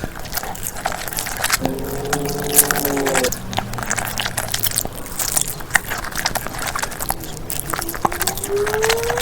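Close-miked chewing and biting into crunchy food: a dense run of crisp crunches and clicks. About two seconds in there is a short pitched, voice-like hum, and near the end a tone that rises.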